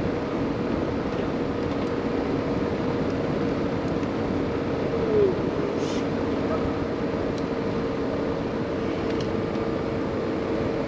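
Cordless drill running steadily, spinning the dryer vent cleaning brush on its rods inside the duct, a constant motor hum. A brief falling squeak comes about five seconds in.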